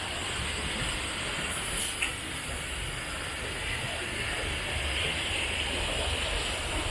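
Steady hiss of rushing water from the mountain stream, with one short click about two seconds in.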